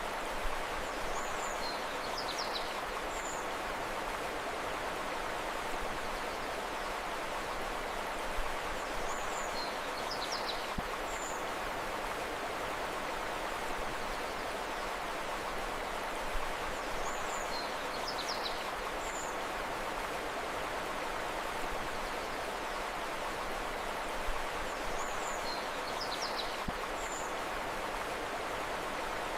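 Steady rush of a flowing river, with a short high-pitched bird call phrase that comes back four times, about every eight seconds.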